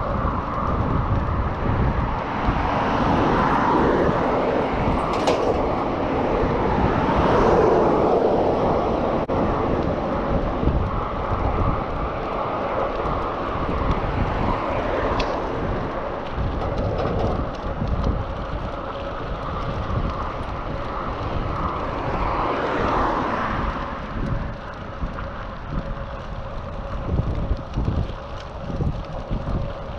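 Wind buffeting a GoPro Hero 7's microphone while riding a bicycle along a street, a steady rush with heavy low rumble, swelling louder about eight seconds in and again near twenty-three seconds.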